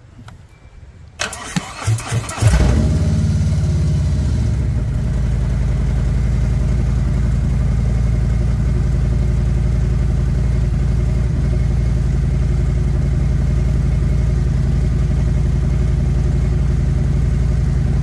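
Harley-Davidson Milwaukee-Eight V-twin on its first start after an oil change: the starter cranks briefly about a second in, the engine catches, and it then settles into a steady idle to warm up.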